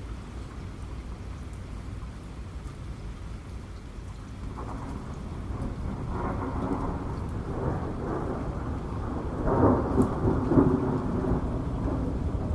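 Steady rain with a roll of thunder that builds from about a third of the way in and rumbles loudest near the end.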